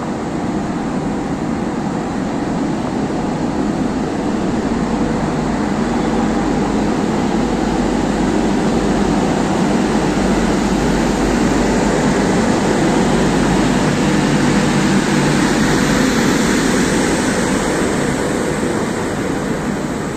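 Passenger train of ICF coaches rolling along the track while departing, a steady rumble of wheels on rail that swells slowly, then eases a little near the end.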